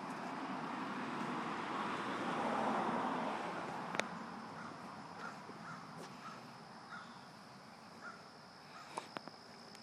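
Outdoor background sound: a broad rushing noise swells over about three seconds and then fades. After it, a run of faint short bird calls repeats about twice a second, and there is a single sharp click about four seconds in.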